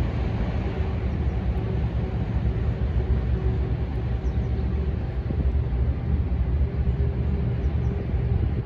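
Tank engine running, a steady low drone with an engine hum.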